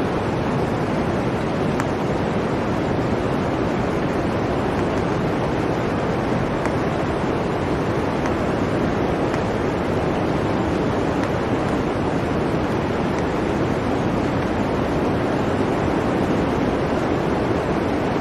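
Steady blizzard wind, a constant even rush of noise with no gusts or breaks, from an ambience soundtrack.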